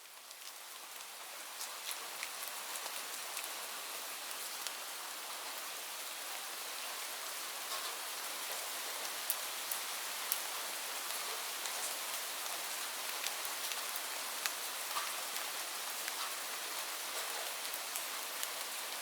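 Steady falling rain: an even hiss scattered with sharper ticks of individual drops, fading in over the first couple of seconds.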